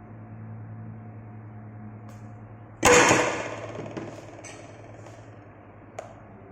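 One loud, sharp knock about three seconds in, its sound dying away over about a second, followed by a few faint clicks, over a low steady hum.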